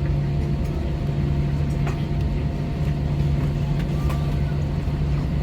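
Steady low drone of a jet airliner heard inside the passenger cabin, engines running, with a constant low hum and fainter higher tones.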